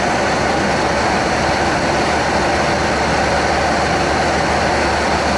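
Steady rush of airflow and engine noise on the flight deck of a Boeing 737-400 in climb, with a low hum underneath.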